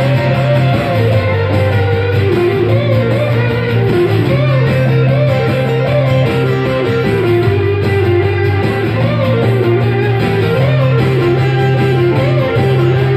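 Rock band playing an instrumental passage: an electric guitar lead with wavering, bent notes over bass guitar and chords.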